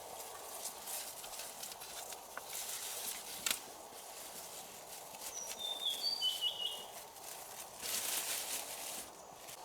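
Outdoor forest background with a steady hum, broken by several bursts of rustling and a sharp click about three and a half seconds in. A bird chirps a few short notes in the middle.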